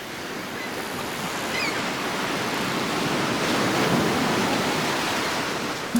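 Steady rush of water, swelling a little toward the middle, with a couple of faint chirps early on.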